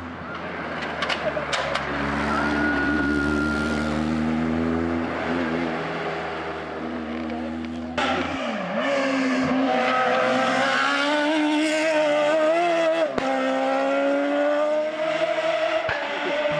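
Car engines revving hard as they climb the hill-climb road, the pitch rising and dropping with throttle and gear changes. About halfway through the sound jumps abruptly to a louder engine.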